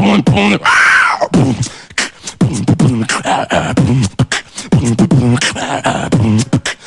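Human beatboxing: a hummed vocal bass line in short pitched phrases, cut through by quick mouth clicks and snare-like hits, with a rising-then-falling swept sound about a second in.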